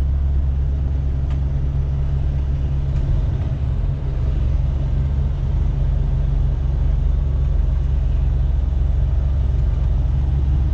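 Semi truck's diesel engine running steadily, heard from inside the cab as a deep, even low hum.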